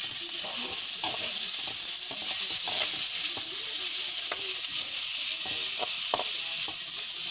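Pieces of bakasi fish sizzling in hot oil in a wok, with a steady hiss, while a metal spatula stirs them, scraping and clicking against the pan every so often.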